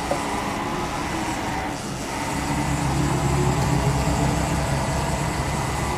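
1996 Haas VF0 vertical machining center's Z axis being jogged: the brushless servo drive and ballscrew run with a steady hum and whine, which grows louder about a third of the way in.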